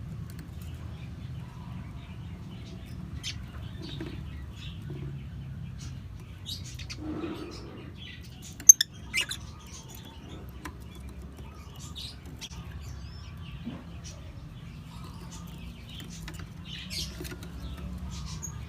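Lovebirds making short, scattered chirps and scratching, rustling sounds, with two sharp clicks a little under halfway through, over a steady low hum.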